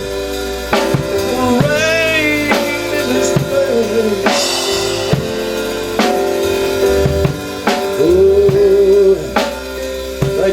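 Live gospel church music: a drum kit keeps a steady beat with kick and snare, with a cymbal crash about four seconds in, over sustained keyboard chords.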